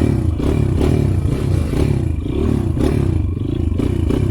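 Motorcycle engine under load, its revs rising and falling several times a second as the throttle is worked over rough ground.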